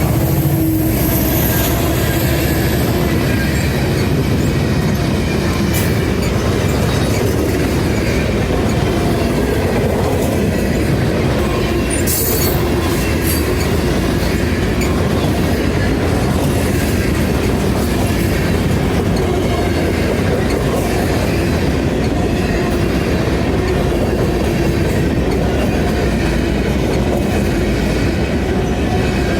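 Train cars rolling past close by, with steady, loud wheel-on-rail noise. A high wheel squeal is heard in the first couple of seconds.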